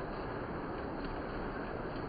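Several model trains running at once on three loops of track, giving a steady, even rumble of wheels and motors.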